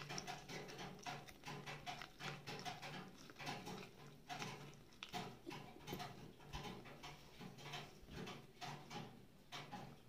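Close-up eating sounds of someone biting and chewing corn on the cob: quick, irregular crunches and wet mouth clicks, several a second.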